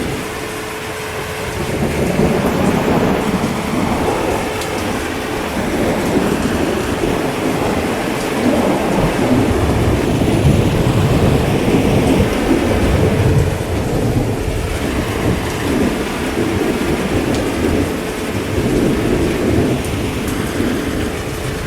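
Heavy rain falling steadily, with low rolling thunder that swells and fades over several seconds, loudest around the middle.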